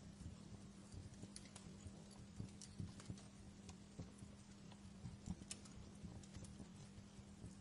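Wood fire crackling in a fireplace: irregular, scattered pops and snaps over a soft hiss, with a faint steady low hum underneath.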